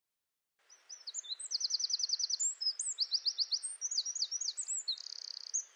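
A songbird singing a varied song that begins just under a second in: quick trills of evenly repeated notes, high down-slurred notes and a buzzy trill near the end, over a faint hiss.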